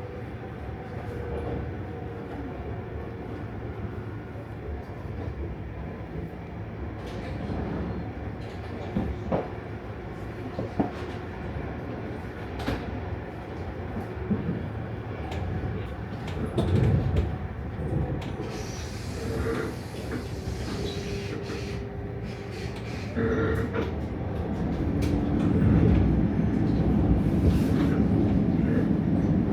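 Regional electric train running on the rails: a steady rumble with scattered clicks of the wheels over rail joints and a brief hiss partway through, the rumble growing louder near the end.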